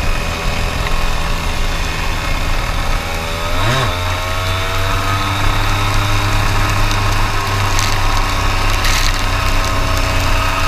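Racing kart engine running; its pitch swings briefly about four seconds in, then holds steady.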